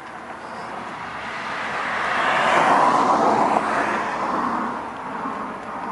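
A passing vehicle: a steady rush of noise without a clear engine note, swelling to its loudest about halfway through and then fading.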